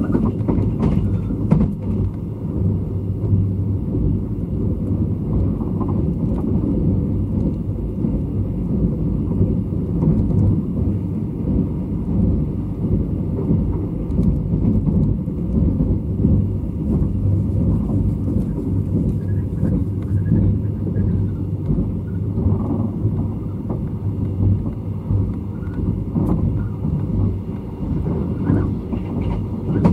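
Running sound of a State Railway of Thailand sleeper express heard inside the coach: a steady low rumble of the wheels on the track while the train runs at speed.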